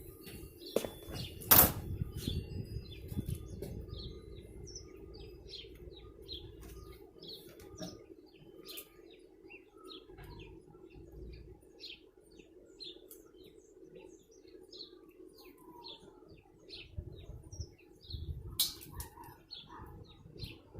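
Small birds chirping repeatedly in short, high notes over a steady low hum, with two loud crackling handling noises, one about a second and a half in and one near the end.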